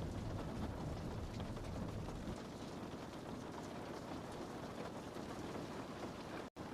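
Steady rain on a window, an even hiss with scattered drop ticks. A low rumble under it drops away about a third of the way in, and the sound cuts out for an instant near the end.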